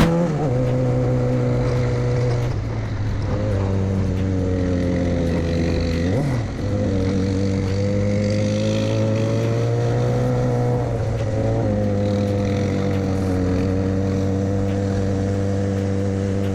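An engine running steadily at one speed, its pitch dipping briefly about six seconds in and wavering slightly a little later.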